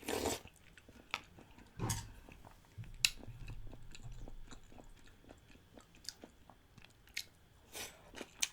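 Close-up mouth sounds of a person chewing a mouthful of rice soaked in chicken-feet broth, with a scattering of small wet clicks and smacks.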